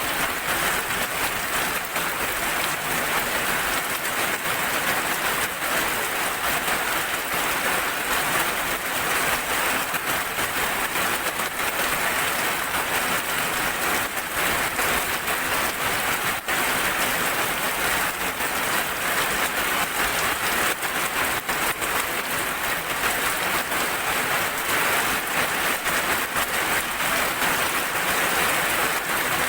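Steady heavy rain falling on a surface, a dense even hiss with many fine drop ticks.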